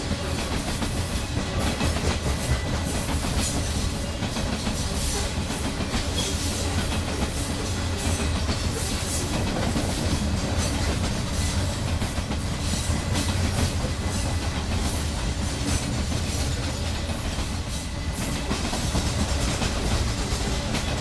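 Loaded coal hopper cars rolling past on steel wheels: a steady low rumble with continual clacking of the wheels on the track.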